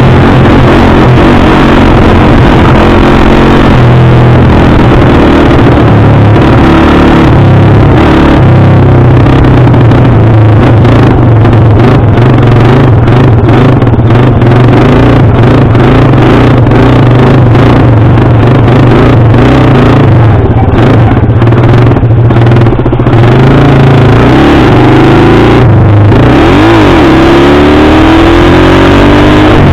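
Dirt bike engine running loudly under way, holding a steady note for most of the stretch, then revving up in a few quick climbs in pitch near the end.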